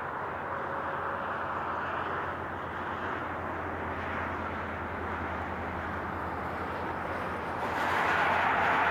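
Steady highway traffic: a continuous wash of tyre and engine noise. It swells louder near the end.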